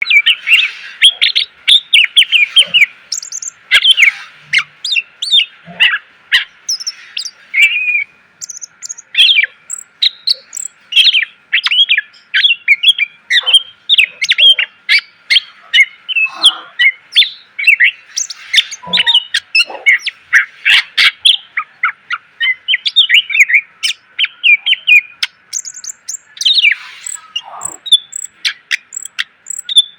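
Cucak ijo (green leafbird) singing loud, rapid, varied song without pause. Short, sharp whistled and chattering notes sweep up and down one after another, packed with fill phrases (isian).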